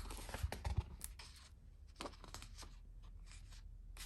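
Paper rustling with several light clicks and taps as the pages of a picture book are handled and turned.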